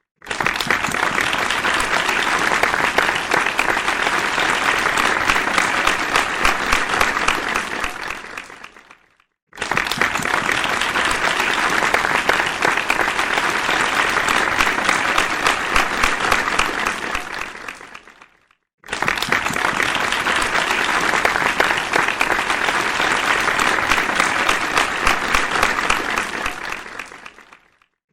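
Crowd applause in three takes of about nine seconds each: each starts suddenly at full strength, then fades away, with a short silence between them.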